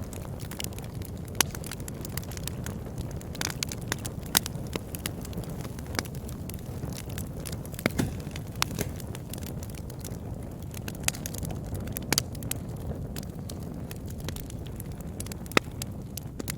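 Wood fire crackling in a fireplace: a steady low rumble of flame with irregular sharp crackles and pops throughout, a few of them louder snaps.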